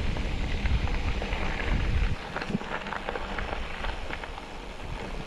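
A vehicle rolling over a rough dirt and gravel track: constant crackling and small clicks from the tyres over a low rumble, which drops off about two seconds in.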